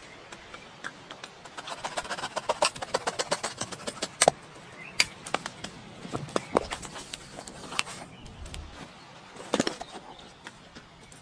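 Sharp knocks and snaps: a quick run of them about two seconds in, then single louder knocks every second or so.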